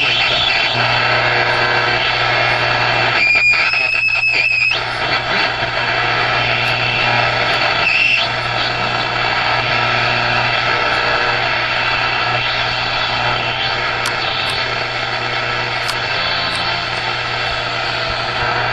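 1961–1970 Dodge truck AM radio playing static: a steady hiss over a low hum, with brief high whistles about three to five seconds in and again near eight seconds. The owner can't say whether the static and screeching come from the radio itself or from the lack of local AM stations.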